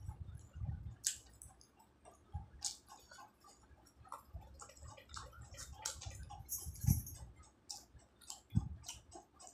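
A person chewing a bite of fried samosa, the crisp pastry crackling in many short, irregular clicks over soft mouth sounds.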